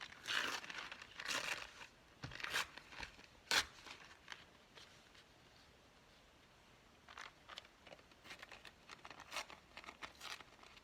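Paper rustling and crinkling as it is handled, in short scattered rustles with a sharp click about three and a half seconds in and a quieter stretch in the middle.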